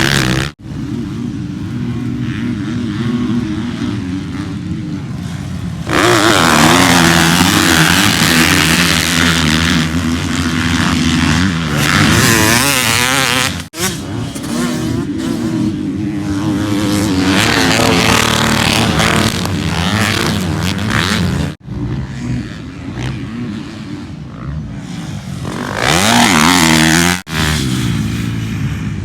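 Motocross dirt bike engines running hard and revving, the pitch rising and falling with the throttle. The sound breaks off abruptly several times and picks up again at a different loudness.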